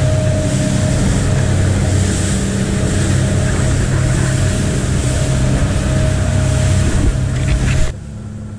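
Boat engine running steadily under way, with wind and water rushing past; it cuts off abruptly near the end.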